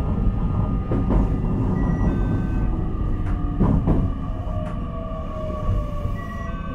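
Onboard running sound of a JR Kyushu 817 series electric multiple unit motor car, KuMoHa 817-1009: a steady rumble of wheels on rail, with paired clicks as the bogie wheels pass rail joints about a second in and again near four seconds in. A motor whine falls slowly in pitch in the second half.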